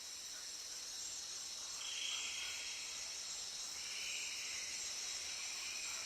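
Background chorus of insects chirring: a steady high-pitched hiss, with two louder stretches of higher buzzing, one about two seconds in and another from about four seconds in.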